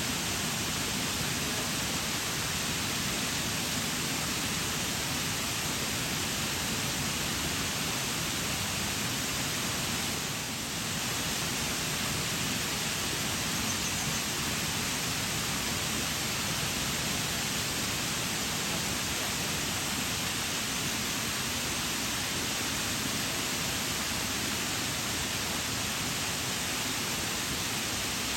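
Waterfall pouring steadily: a dense, even rush of falling water with no break.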